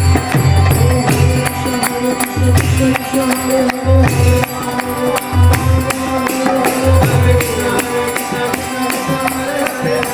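Instrumental kirtan music between chanted lines: a steady held drone, deep drum strokes about once or twice a second, and a constant bright jingling of small hand cymbals.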